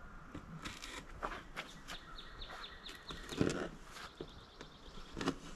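A bird calling outdoors, a quick run of short high chirps about two seconds in. About three and a half seconds in, a dull thump, the loudest sound, as a cardboard box is set down on a car's hood, with light handling clicks around it.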